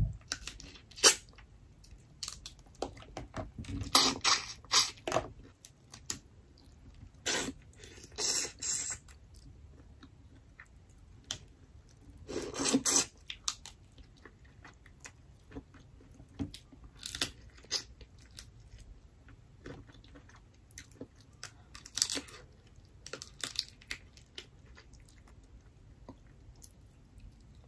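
Close-up eating of boiled lobster: chewing and biting meat from the head and legs, with irregular crunches and cracks of shell, the heaviest about four, eight and thirteen seconds in.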